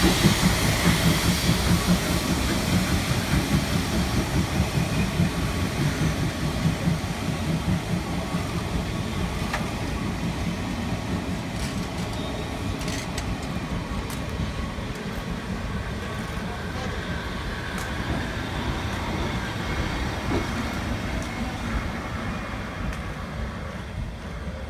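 Steam-hauled passenger train running past and moving away, its rumble and rail noise slowly fading.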